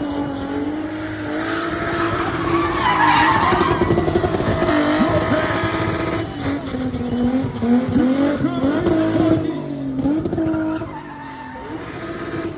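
Spinning car's engine held at high revs, its pitch wavering up and down as the throttle is worked, with tyres squealing against the tarmac as the car spins. The revs drop back and the sound eases briefly near the end.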